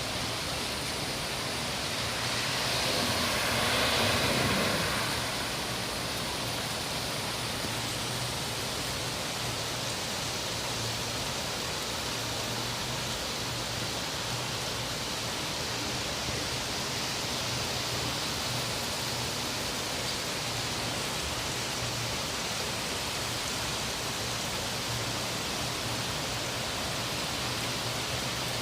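Steady rush of flowing runoff water, a flooded channel running like a small river after a typhoon, with a brief louder swell a few seconds in.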